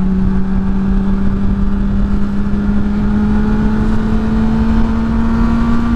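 Motorcycle engine running at a steady cruise, its pitch creeping slowly upward as it gently gains speed, over a low rumble of wind on the helmet-mounted microphone.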